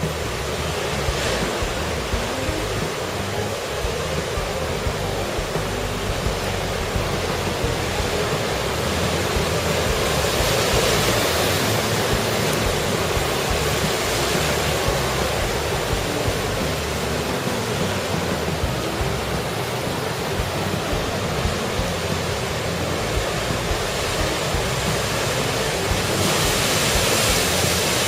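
Heavy typhoon surf: a continuous rush of large waves breaking, swelling louder about ten seconds in and again near the end.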